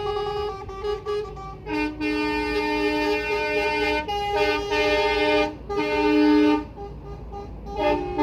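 Truck horns sounding in a series of long blasts, several pitches at once that change from one blast to the next, with short breaks between them; the loudest blast comes a little after six seconds in.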